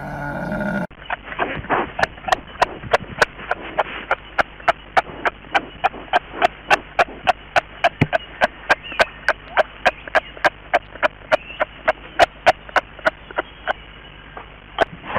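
Kangaroo clicking in a steady, even series of sharp clicks, about two to three a second. In the opening second the tail of a camel's pitched call cuts off abruptly.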